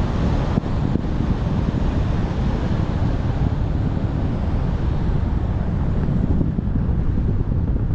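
Wind buffeting the microphone: a steady, loud noise heaviest in the low end, with no clear tones.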